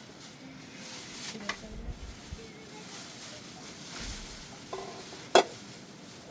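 A steady hiss with a few sharp clicks or knocks, the loudest about five seconds in.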